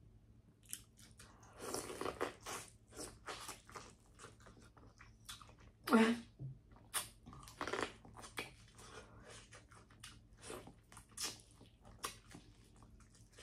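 Close-miked eating of a seafood boil: chewing and biting with irregular crunches and wet mouth clicks and smacks.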